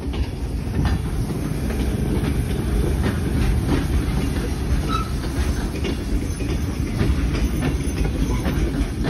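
Steam-hauled heritage passenger carriages rolling past on the track: a steady low rumble with irregular clicks and clacks of the wheels over the rail joints.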